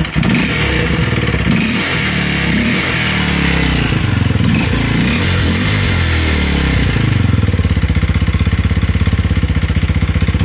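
Kawasaki KLX230SM's single-cylinder four-stroke engine running with its airbox snorkel removed and the stock exhaust baffle still in. It is revved up and down several times, then settles to a steady, pulsing idle about seven seconds in.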